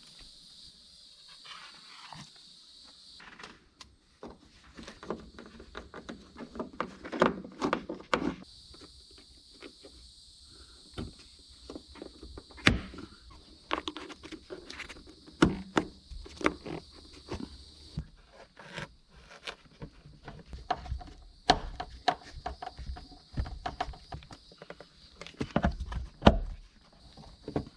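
Irregular clicks, knocks and thuds of car interior trim pieces being handled and fitted, some sharper snaps among them.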